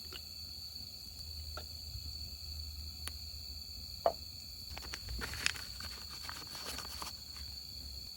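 Insects, likely crickets, trilling as a steady high drone, with scattered small clicks and knocks from handling things, including a short ringing clink about four seconds in.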